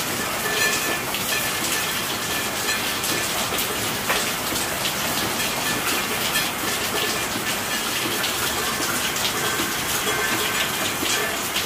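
Steady rainfall: a dense, even patter of raindrops.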